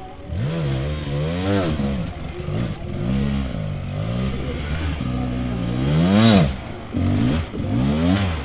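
Dirt bike engine revving hard in repeated bursts, its pitch climbing and dropping again several times, with the loudest rev about six seconds in.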